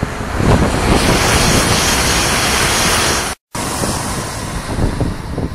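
High-speed electric train passing close by at speed, a loud rushing that builds about half a second in, with wind buffeting the microphone. The sound cuts out for an instant a little past halfway, then carries on quieter as the train runs away.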